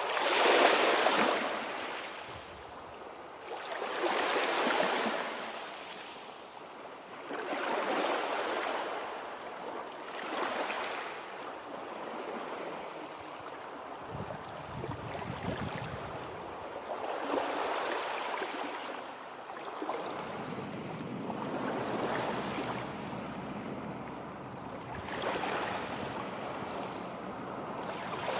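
Sea waves breaking and washing onto the shore, one surge every three or four seconds, the first the loudest.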